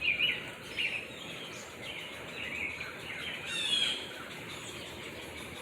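Birds chirping: several short calls scattered through, the loudest a little past halfway.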